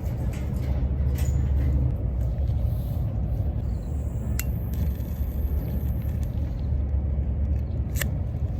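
Wood fire burning in a UNIFLAME Fire Grill fire pit, with two sharp crackles, one about halfway through and one near the end, over a low steady rumble.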